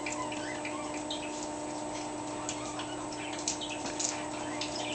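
Green-cheeked conure making soft, scattered clicks and short chirps over a steady background hum.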